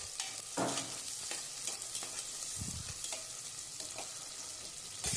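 Sliced onions and garlic sizzling in hot oil in an aluminium pressure cooker while being stirred with a perforated metal skimmer, which scrapes and taps against the pot.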